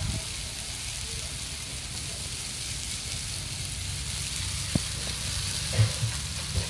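Mushrooms and diced onions sizzling in oil and butter on a gas flat-top griddle, a steady hiss. A few sharp knocks come near the end.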